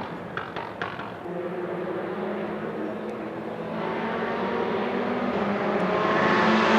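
Rally car engine running, growing steadily louder as the car approaches, with a few short sharp cracks about half a second in.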